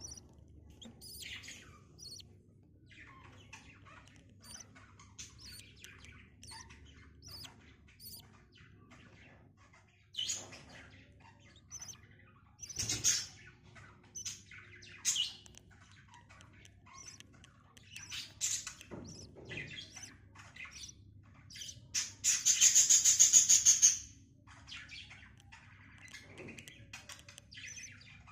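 Budgies chirping: scattered short chirps and tweets, then one loud, harsh, rapid call about two seconds long roughly three-quarters of the way through.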